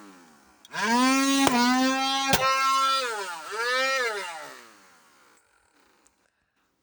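Handheld vacuum cleaner motor starting up and running with a high, siren-like whine, its pitch dipping and recovering a couple of times, with two sharp clicks, then winding down and fading out about five seconds in.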